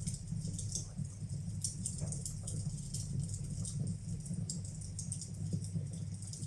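Wood fire burning in a fireplace: a steady low rumble with many small, irregular crackles and pops.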